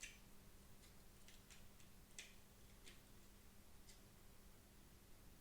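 Faint, irregular light clicks and taps of small plastic computer-mouse parts being handled and fitted together by hand, over a low steady hum.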